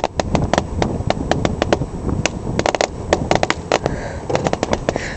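A roll of firecrackers going off, a rapid, uneven run of sharp pops, several a second. The pops come slower than a fresh roll, which the lighters put down to the firecrackers being old.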